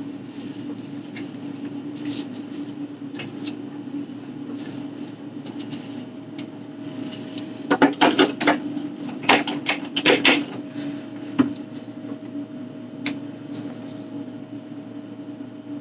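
Bottles and containers being handled and set down while a fridge is cleaned out: scattered clicks, then a burst of knocks and clatter around the middle, over a steady low hum.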